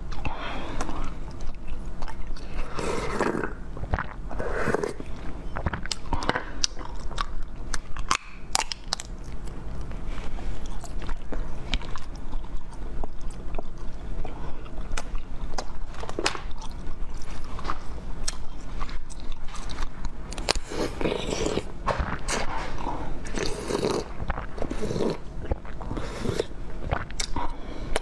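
Close-miked biting and chewing of frozen macaron-shaped sweets: many sharp crunchy crackles, with thicker bursts of wet chewing at intervals.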